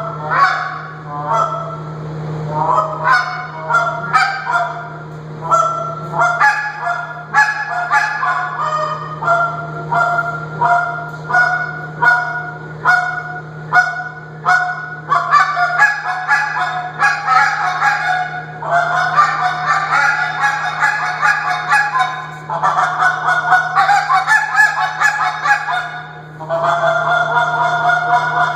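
Tim Grounds G Overhauler goose call blown in fast runs of honks and clucks, several notes a second, with short breaks between runs. A steady low hum runs underneath.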